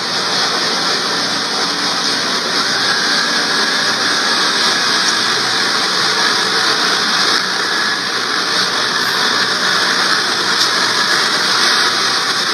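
Roomba robot vacuum running with a steady whirring hiss that does not change.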